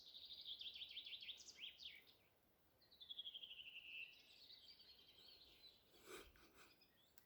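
Faint songbird song: two rapid trilled phrases, the second sliding down in pitch. A brief rustle or click comes about six seconds in.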